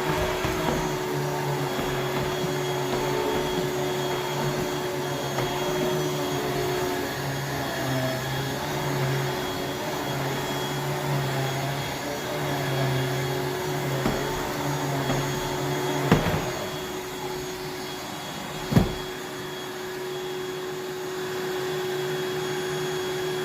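Water-filtration vacuum cleaner running steadily, its motor holding one constant pitch. Two sharp knocks come about 16 and 19 seconds in.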